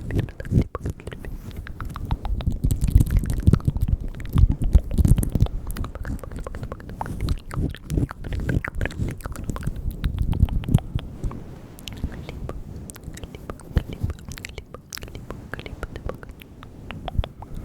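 Close-microphone ASMR mouth sounds: a dense, irregular run of wet lip and tongue clicks and smacks, with soft low thumps among them.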